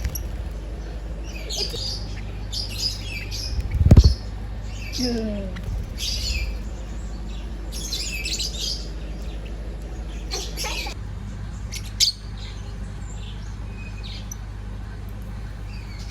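Small birds chirping in quick, repeated clusters of high calls, with a loud low thump about four seconds in and a sharp click near the end.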